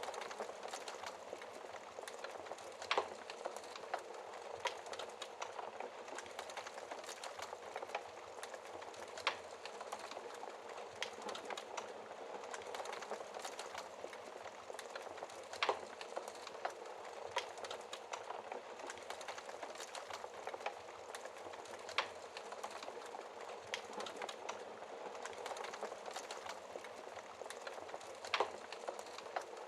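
Wood fire crackling in a fireplace: a steady crackle of small snaps, with a louder sharp pop about every six seconds.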